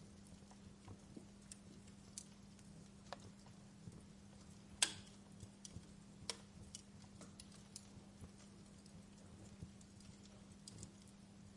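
Wood fire in a fireplace crackling: faint, irregular pops and snaps, the sharpest about five seconds in, over a steady low hum.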